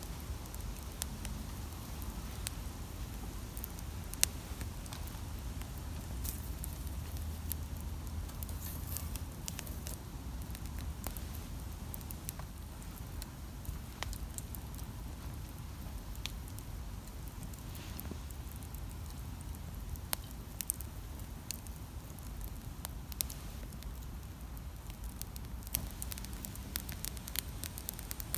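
Campfire burning with a low steady rumble and scattered sharp crackles and pops from the burning wood, a few of them louder.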